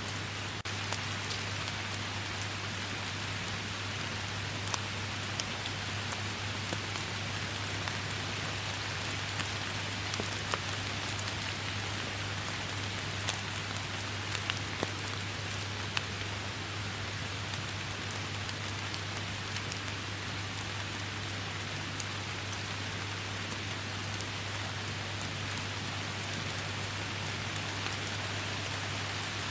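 Steady rain falling in a forest: a dense, even hiss with many separate drops ticking sharply through it, over a steady low hum.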